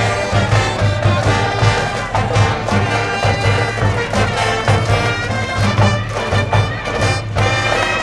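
A high school baseball cheering brass band playing a cheer song, with a steady drum beat underneath.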